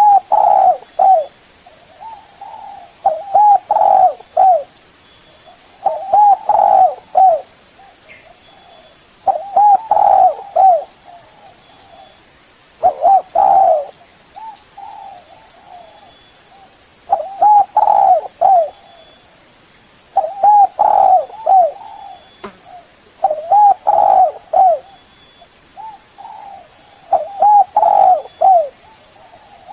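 Spotted dove (tekukur) cooing, a phrase of several curved coo notes repeated every three to four seconds, with softer coos between the phrases.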